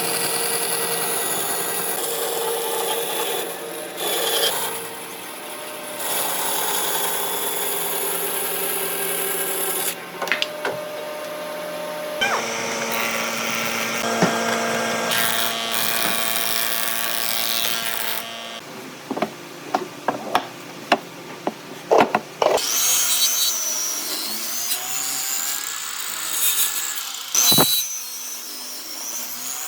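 Woodworking in a workshop, in several short cuts: power tools running on wood for stretches, then a quick series of sharp knocks like tools striking wood, and then more tool noise on the wood.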